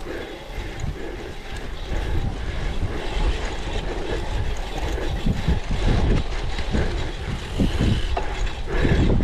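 Cyclocross bike being ridden over rough ground: a steady rumble of wind on the microphone, with the bike rattling and thumping over bumps. It gets louder and bumpier in the second half.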